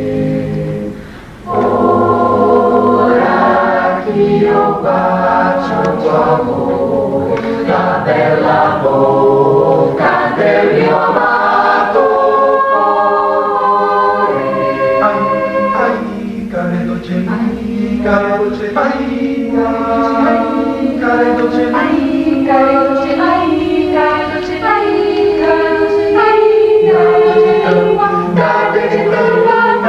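Mixed choir singing a cappella in several parts, with a short break about a second in before the voices come back in together.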